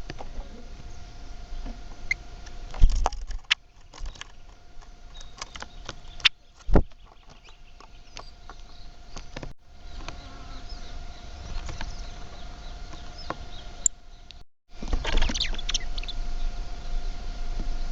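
Birds chirping with short, high calls, among scattered sharp clicks and knocks. The sound drops out briefly twice.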